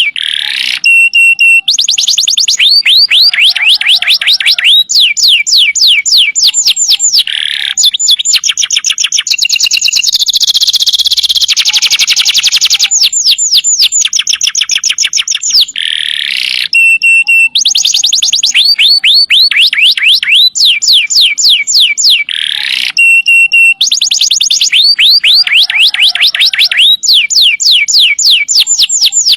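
Domestic canary singing loudly and without pause: long, rapid trills of fast repeated notes, one phrase after another.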